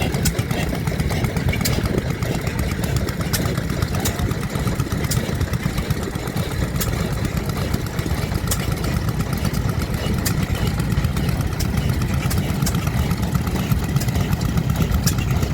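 Vintage stationary engines running steadily, a dense low rumble with scattered sharp clicks.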